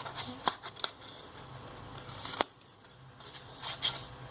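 Scissors snipping through a paper strip, several short sharp cuts with the crisp rustle of paper between them, the loudest snip a little past halfway.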